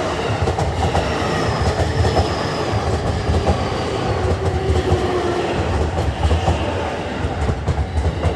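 A train running through a level crossing: steady rumble and wheels clattering over the rails, with a faint whine that falls slowly in pitch.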